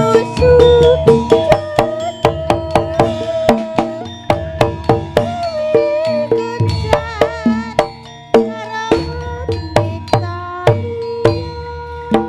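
Live Javanese kuda lumping gamelan music: quick hand-drum strokes over ringing metallophone notes, with a wavering melodic lead in the middle.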